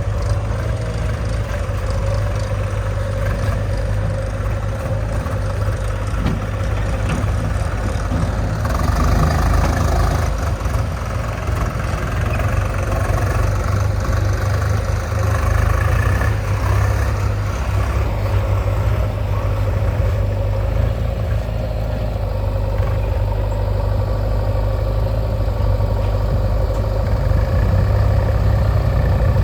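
Heavy diesel engine of earth-moving or farm machinery running steadily with a deep, low sound, swelling slightly in level a couple of times.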